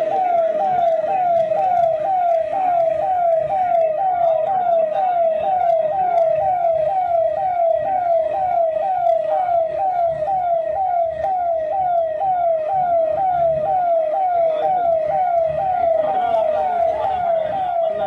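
Siren sounding in quick, repeated falling sweeps, about two a second, steady throughout over a low rumbling background.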